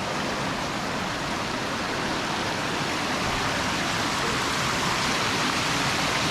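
Rushing water of a creek pouring over a small waterfall, a steady hiss that grows a little louder toward the end.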